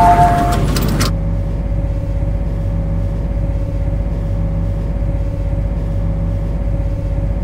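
Tail of the MTR train's two-note door chime, ending within the first half second. A rush of noise cuts off about a second in. Then the standing C-Train's cab gives a steady electrical hum with a constant tone.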